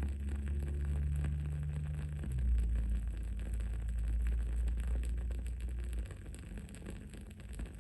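Wood-wick candle crackling in small, irregular snaps over a low steady rumble, which stops about six seconds in.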